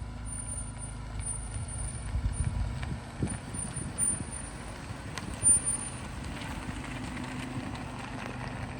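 Truck on the move: a steady low engine and road rumble, with a few short knocks, the loudest about five and a half seconds in.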